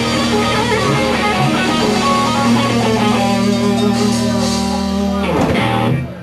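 Rock band's electric guitars ringing out a long held chord with a busy guitar lead over it, ending with a final hit about five and a half seconds in as the song closes.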